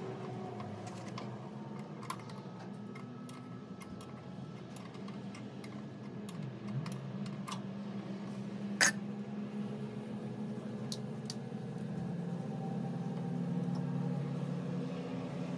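Scattered light clicks and clinks, with one sharp click about nine seconds in, over a steady low hum.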